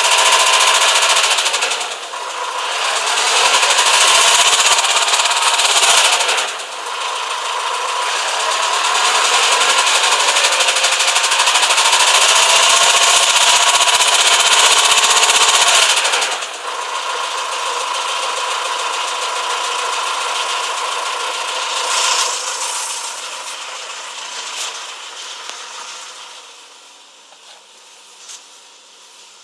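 Renault M9R 2.0 dCi four-cylinder diesel engine running with a rapid metallic knocking, rising in three long loud stretches as it is given throttle, then settling lower and fading near the end. The knock comes from the timing-chain side of the cylinder head and shows up under throttle; the injectors have been checked and are fine, so the cause is unknown to the owner.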